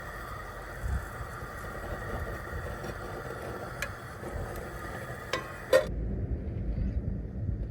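Food sizzling in a pan on a camp stove, with a few light clinks from a cooking utensil. About six seconds in, the sizzle cuts off abruptly and only a low rumble is left.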